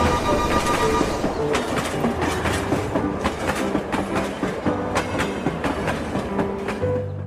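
Train running over rail joints with a clickety-clack of repeated clicks, plainer from about a second and a half in, over a steady high tone that stops about a second in.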